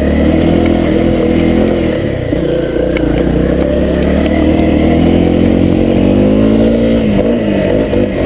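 Honda CRF250L dirt bike's single-cylinder four-stroke engine pulling under load on a trail climb, its revs rising and falling as the throttle is worked. The revs sag about two seconds in and again near the end, as the rider fights to keep the revs up.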